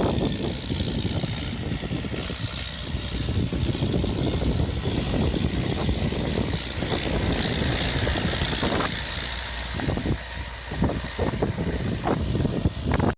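Mahindra 575 tractor's diesel engine running steadily, with a hiss that swells in the middle and a few sharp clicks near the end.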